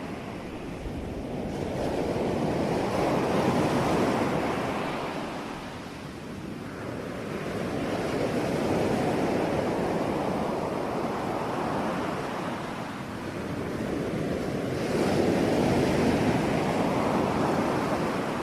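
Ocean waves breaking on a shore, the surf swelling and ebbing three times with a steady wash between breakers.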